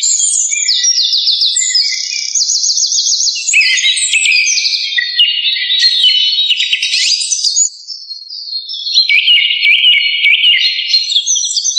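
Several songbirds singing at once: a dense chorus of high, rapid trills and chirps, with a short lull about eight seconds in where a single thin high note carries on.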